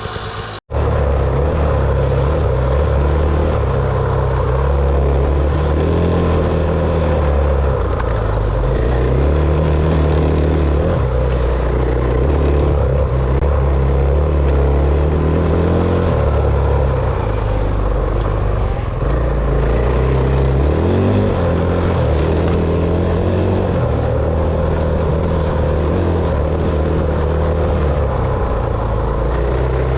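Enduro dirt bike engine running under way on a trail ride, its revs rising and falling as the rider works the throttle and gears. The sound cuts out for a split second near the start, then runs loud throughout.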